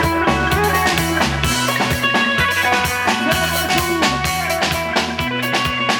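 Band playing rock-style music at a sound check: a drum kit keeping a steady beat under repeating bass notes and guitar.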